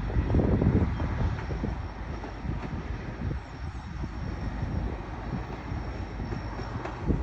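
Passenger train rolling past, a steady rumble of wheels on rails that is loudest in the first second and then settles a little lower.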